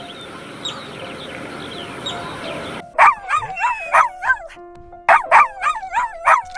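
Birds chirping over a steady outdoor hiss. After a sudden cut about three seconds in, a dog barks in quick, high yaps, in two runs of four or five.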